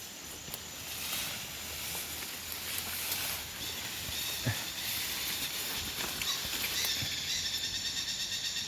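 Rustling and a few soft knocks, as of someone moving through forest undergrowth. About two-thirds of the way in, a high, rapidly pulsing insect buzz starts up and keeps going.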